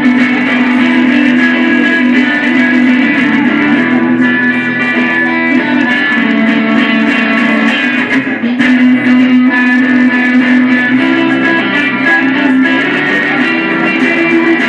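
A guitar being played live in a loose, ongoing jam, with notes ringing on steadily and a short drop in level about eight seconds in.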